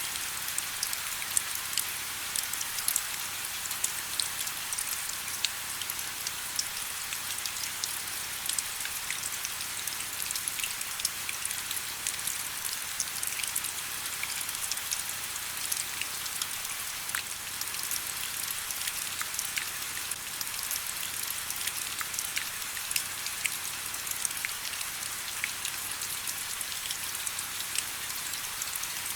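Steady rain: an even hiss with many small drops ticking throughout.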